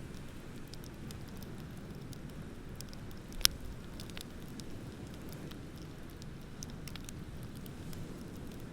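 Wood bonfire crackling with scattered small snaps over a steady low rumble, and one sharp, much louder pop about three and a half seconds in.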